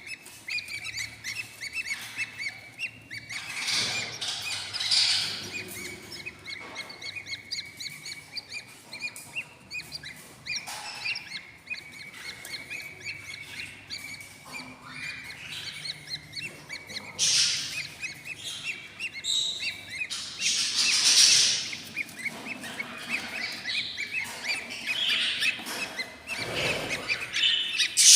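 Eight-day-old budgerigar chicks in a nest box cheeping: rapid, closely repeated chirps with several louder, harsher bursts, the begging calls of hungry chicks.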